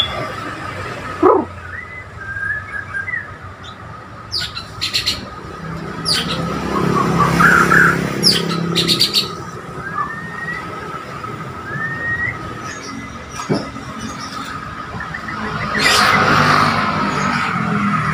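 White-rumped shama (murai borneo) singing: short rising whistles and sharp clipped notes scattered through, over a steady thin background tone. A louder rush of noise comes in near the end.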